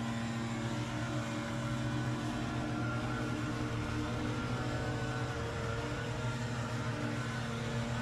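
Small engine of lawn equipment running steadily at constant speed, with no revving.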